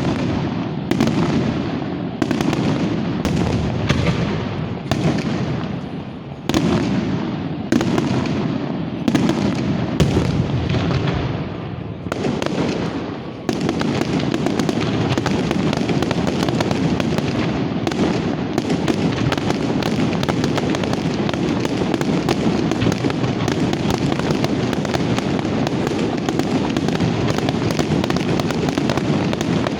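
Fireworks going off: single loud bangs about once a second, each echoing away. About halfway through they merge into a dense, continuous barrage of rapid bangs.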